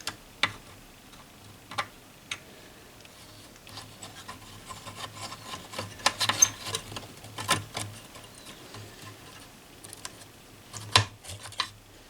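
Hands handling the parts of an old tube radio console: soft rubbing with scattered light clicks and taps, a busier run of clicks in the middle and a sharper click near the end.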